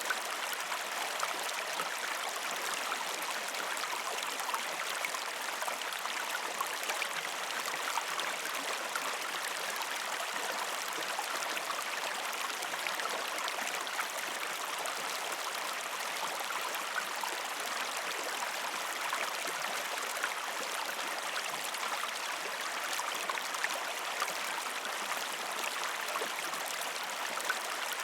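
Gentle river stream flowing over rocks: a steady, even rush of water with small splashes and trickles throughout, and no deep rumble.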